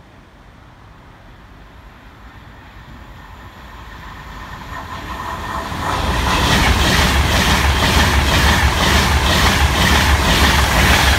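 Class 390 Pendolino electric train approaching and passing close by: a rumble that grows steadily louder over the first six seconds, then a loud rush of wheel and air noise with a regular clickety-clack from the wheels on the track as the carriages go past.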